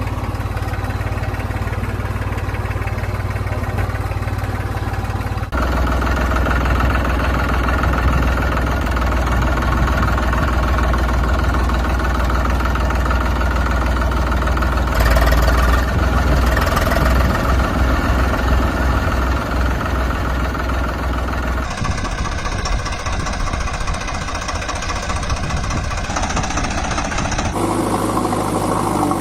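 Diesel engines of heavy machinery running at idle, with a knocking clatter; the sound changes abruptly three times as one engine gives way to another.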